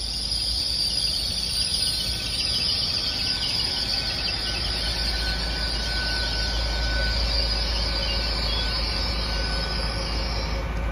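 Great Western Railway Class 800 bi-mode train running on its underfloor diesel engines as it draws slowly into the platform: a steady rumble with a constant high hiss over it.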